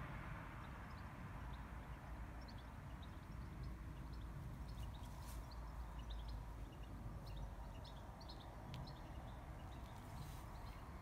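Small birds chirping in short, scattered high calls over a low steady outdoor rumble, with a couple of faint clicks.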